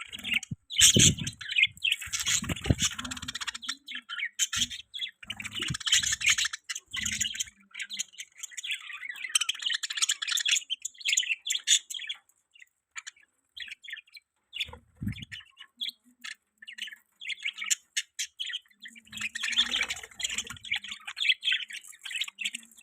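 Budgerigars (budgies) chirping and warbling in rapid, busy runs of short high notes with brief pauses, now and then a harsher squawk, and a few low thumps among them.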